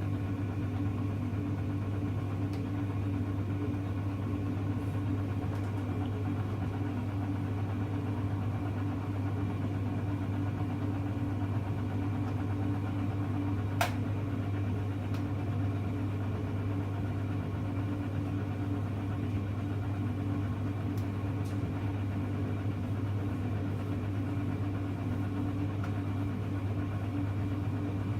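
Hoover Electra front-loading washing machine running with a steady, unbroken hum, with a single sharp click about halfway through.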